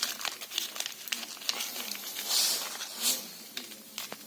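Small clicks and rustling from parts and materials being handled during a brake caliper repair, with a short hiss about two and a half seconds in.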